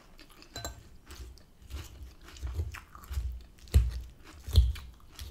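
Chewing a mouthful of crisp lettuce and rocket salad, with short crunches about every half second and two louder crunches near the end.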